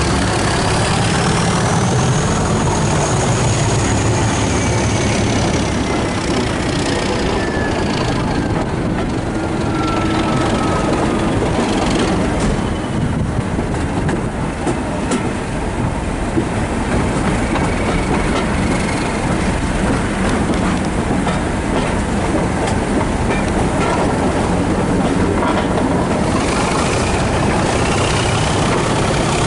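A diesel-hauled passenger train running at speed, heard from an open coach window behind Class 37 locomotive 37714: a steady rumble of wheels on the track. A few long squeals slide in pitch in the first half, and clicks come over the rail joints in the middle.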